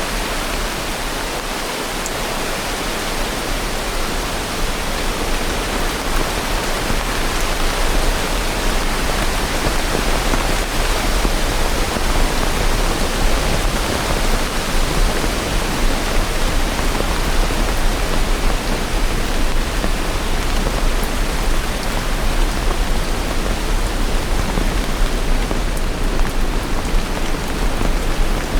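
Steady rain, a dense even hiss with a constant low rumble underneath, growing slightly louder several seconds in.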